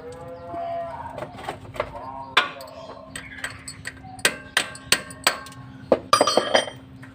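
Metal knocking and clanking: a series of sharp hammer-like strikes, most of them from about four seconds in, with a short metallic ringing after the last few. Pigeons coo near the start, over a steady low hum.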